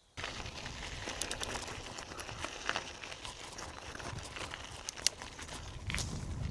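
Dense crackling, crunching noise with scattered sharp clicks and a low rumble, cutting in suddenly just after the start: a bicycle rolling over a rough track.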